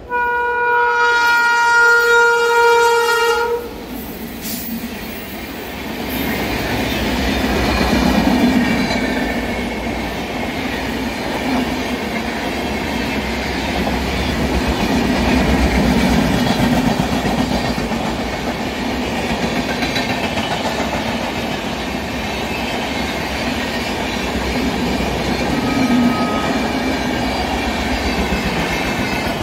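Indian Railways electric locomotive, the WAP-4 of the title, sounding one long horn blast of about three seconds as it approaches, then its rake of passenger coaches rumbling and clattering past over the rail joints at speed.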